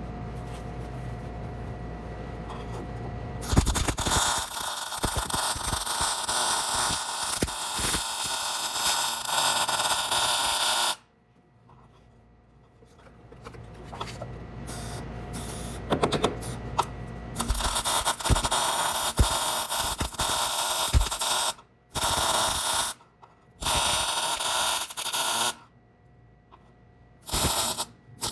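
Wire-feed welder welding steel under the body mount of a rusted floor pan, crackling. There is one long run of about seven seconds, then several shorter bursts of a second or two with pauses between, like stitch welds. A steady hum comes before the first weld.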